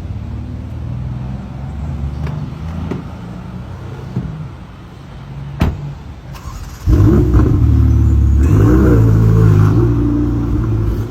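Car engine running with a steady low rumble, then revving louder about seven seconds in with a rise in pitch. A single sharp click comes just before the rev.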